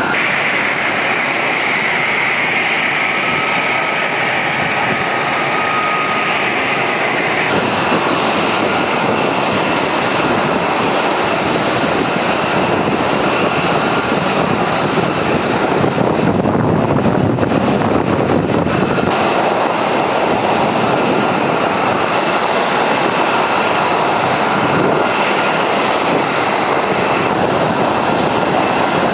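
Military jet aircraft engines running loud with a steady high whine over a broad roar. The sound changes abruptly about 7 seconds in and again about 19 seconds in.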